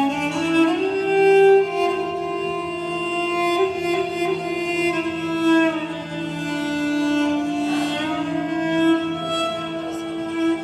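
Music of bowed strings playing slow, long held notes that slide gently from one pitch to the next.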